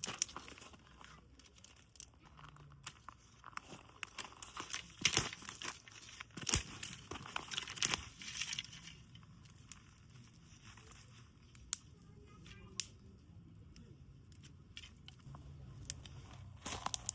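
Plastic or paper packaging crinkling and tearing, with scattered clicks and taps of handling, busiest from about four to nine seconds in.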